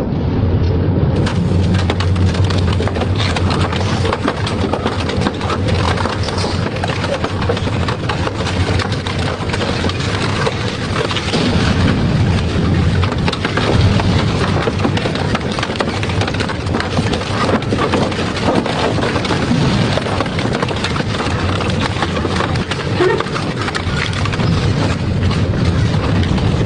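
Double-shaft shredder running and continuously crunching and cracking material between its cutters, with a steady low motor hum underneath.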